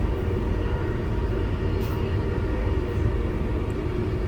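Steady low rumble of a passenger train running along the track, heard from inside the carriage, with a faint steady hum over it.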